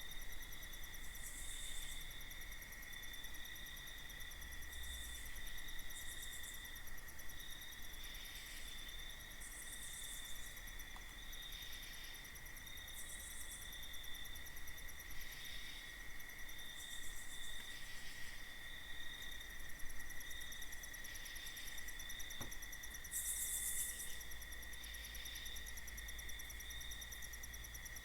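Night insect chorus of crickets: steady high trills, with higher pulsed chirping that comes and goes every second or two, over a low rumble.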